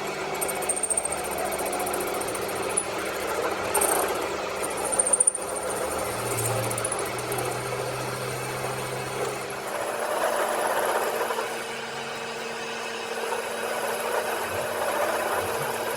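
A power tool running steadily in a workshop, with a few sharper peaks about four and five seconds in.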